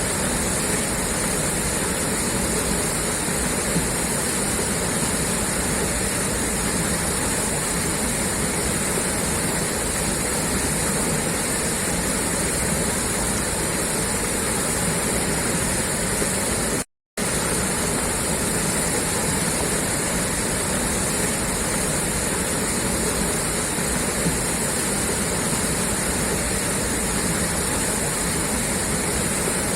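Water gushing steadily out of a pipeline outlet, an even rushing that cuts out for a split second about halfway through.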